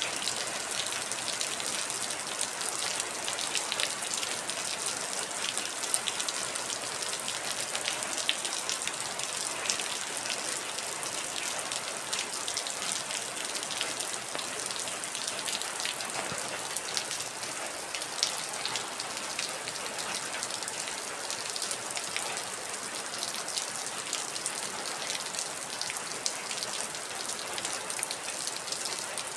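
Heavy rain falling steadily, a dense hiss with many separate drops pattering on a hard surface.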